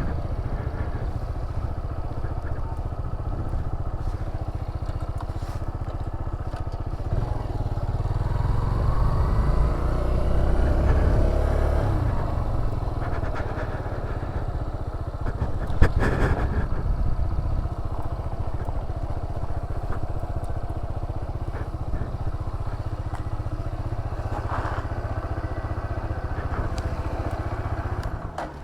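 Motorcycle engine running while riding, its pitch climbing as it speeds up from about eight to twelve seconds in, then easing back to a steady cruise. A single sharp knock comes about sixteen seconds in.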